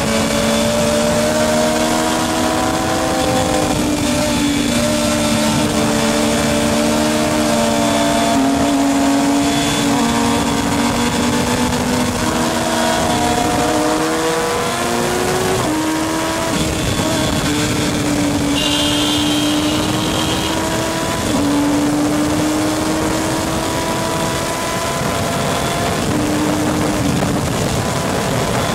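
Racing motorcycle engines running hard, several at once, each pitch climbing and then stepping with gear changes.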